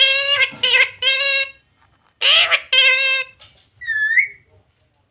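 Pet parrot calling loudly in short, high-pitched calls: three in quick succession, then two more after a short gap, then a brief dipping whistle about four seconds in.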